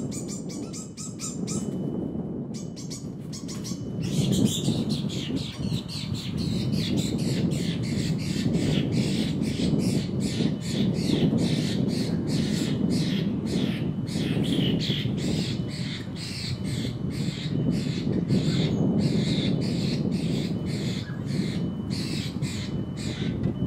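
Birds squawking in a long run of short, harsh calls, about two a second, over a steady low rumble.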